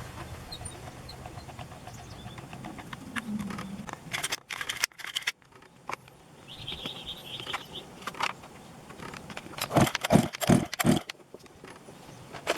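Clicks and clinks of hand work on a chainsaw, with a brief high ringing tone past the middle and a run of four or five loud knocks near the end.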